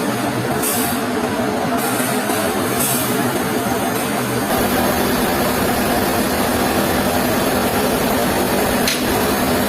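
Sawmill machinery running steadily, its sound shifting about four and a half seconds in, with a brief click near the end.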